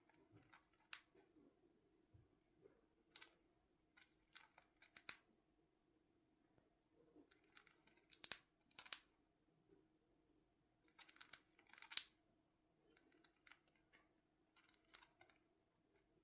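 A cockatiel's beak nibbling and crunching: sharp, irregular snipping clicks that come in short clusters a second or two apart.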